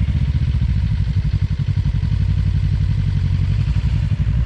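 Suzuki Inazuma 250's parallel-twin engine running at low, steady revs, a fast even beat close to the microphone.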